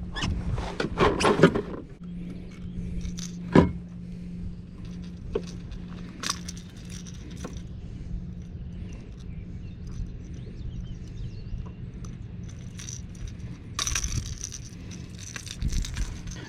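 Light metallic clinking and rattling of fishing tackle being handled, densest in the first two seconds and again near the end, over a steady low hum.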